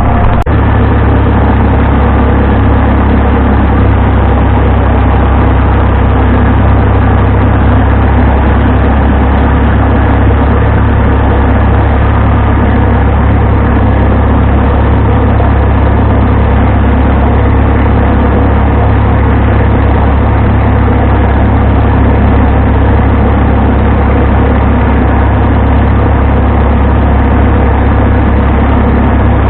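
Vintage farm tractor engine running steadily under a constant throttle, loud and close, with a strong low drone and no change in speed.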